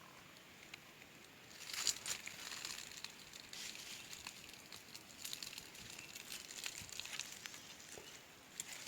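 Dry leaves and brush rustling and crackling in irregular bursts, with scattered sharp snaps, as the ground around a serut stump is disturbed.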